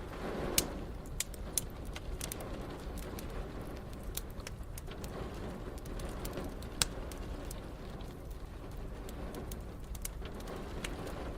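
Wood fire crackling, with scattered sharp pops (the loudest near the start and again about seven seconds in), over a steady low rush of rain.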